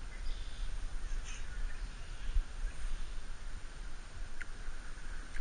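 A bird calling faintly a few times over a low steady rumble.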